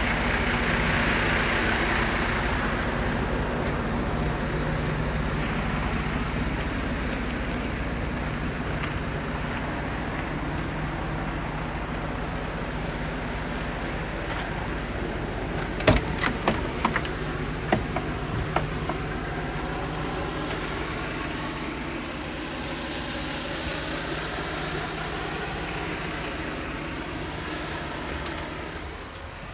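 Scania P270 truck's nine-litre five-cylinder diesel running steadily at idle, with a cluster of sharp knocks about halfway through.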